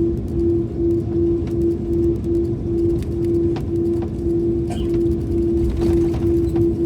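A vehicle running: a steady low rumble with a pulsing hum that beats a little faster near the end, and scattered light clicks and rattles.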